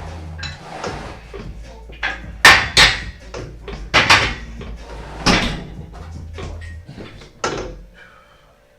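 Gym weights clanking and knocking during a leg-workout set: a run of irregular metal impacts, the loudest about two and a half, four and five seconds in.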